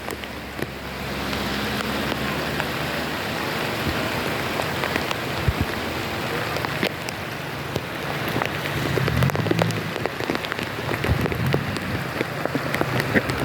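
Heavy rain in a windstorm: a steady hiss of rainfall with many sharp drop impacts, and a low rumble that swells about nine seconds in.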